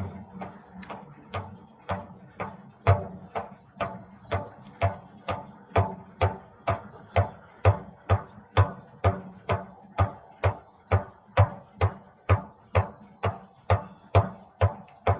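Shamanic frame drum beaten in a steady, even rhythm of about two strikes a second, each with a deep thump and a ringing overtone. It starts softer and builds up over the first few seconds, while a low drone fades out.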